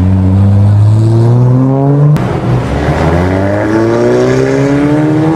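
Sports car engine accelerating hard: revs climb for about two seconds, a quick upshift with a sharp crack drops them, then they climb again.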